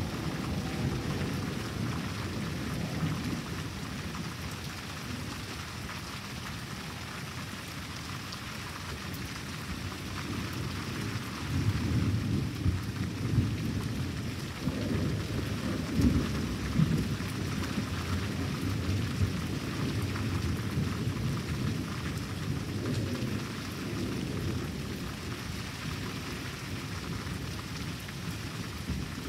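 Steady rain falling throughout a thunderstorm, with thunder rumbling. The rumbles swell through the middle, loudest about halfway in.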